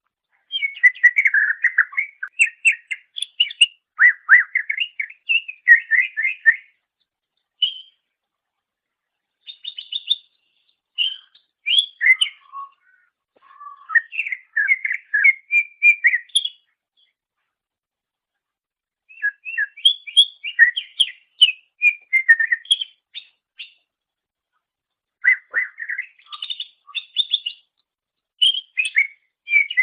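Greater green leafbird (cucak ijo) singing: fast runs of chattering, whistled notes in phrases of a few seconds, broken by short pauses of one to two seconds.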